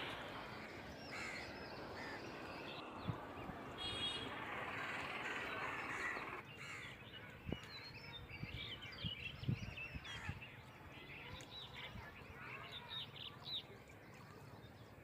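Outdoor ambience with birds chirping and crows cawing. A steady rushing noise fades out about six seconds in, after which the many short bird calls stand out.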